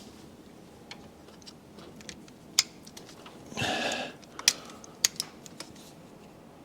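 Scattered sharp clicks and clinks of a hand ratchet and socket turning the intake manifold bolts of a Mercedes M156 V8 through their angle-tightening step. There is a short burst of noise a little past halfway.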